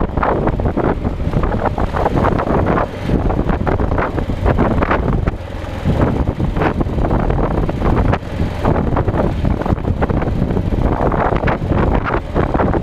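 Wind buffeting the microphone on a moving motorcycle, with engine and road noise underneath.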